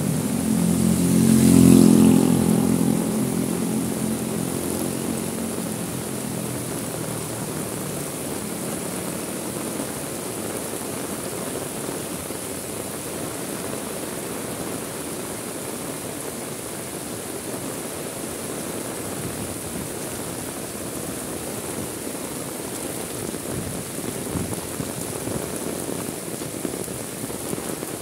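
Heavy rain falling steadily. A motor vehicle passes on the wet road, its engine and tyre spray loudest about two seconds in, then fading into the rain.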